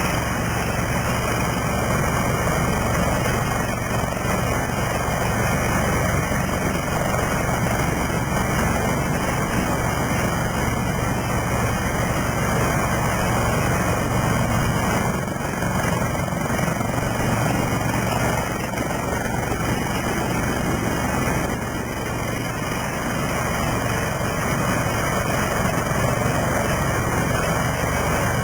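Westland Lynx helicopter's twin turbine engines and rotor running steadily, a loud, even noise weighted toward the low end.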